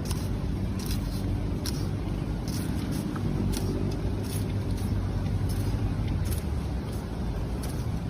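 An engine running steadily with a low hum, a little louder in the middle, with a few faint clicks over it.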